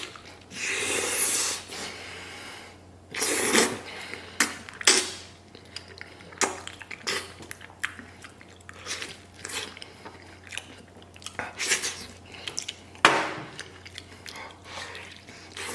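A person biting into and chewing a braised pork knuckle, with many small mouth clicks and several louder bites or smacks, about a second, three and a half, five and thirteen seconds in.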